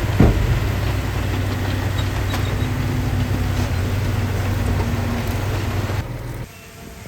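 Heavy diesel engine of earthmoving machinery running steadily, with a sharp knock about a quarter second in. The engine sound drops away abruptly near the end.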